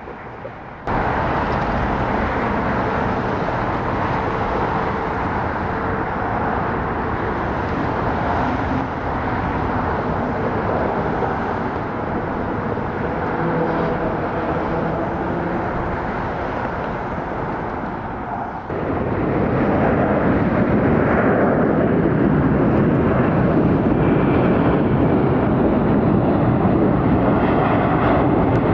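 Boeing 787-9 jet engines running with a steady rushing noise and a faint whine. The sound steps up abruptly in loudness about two-thirds of the way in.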